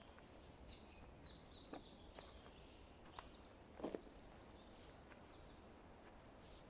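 A songbird singing a quick phrase of about ten repeated, high, down-slurred notes in the first two seconds, over a faint forest background. A few sharp cracks follow, the loudest a little before four seconds in.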